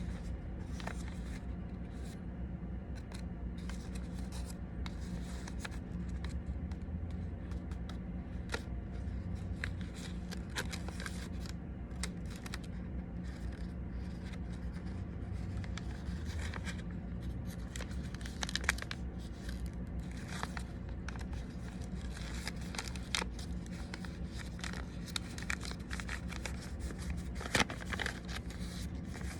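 A sheet of origami paper being folded and creased by hand: irregular crinkles, rustles and short scrapes, more frequent in the second half, over a steady low hum.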